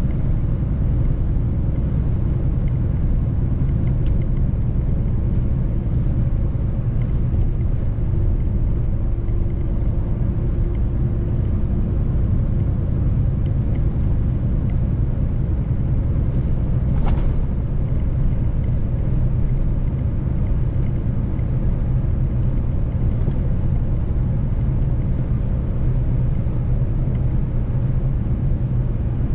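Mercedes-Benz truck driving at a steady pace: a constant low rumble of engine and road noise, with a brief faint tick about seventeen seconds in.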